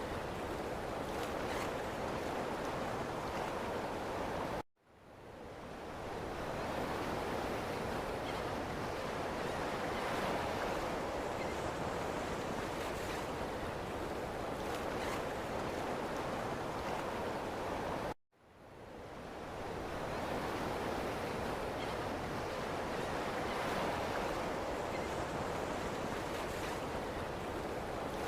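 Ocean surf washing steadily on a beach. The sound cuts out abruptly twice, about 5 and 18 seconds in, and swells back over a second or two each time.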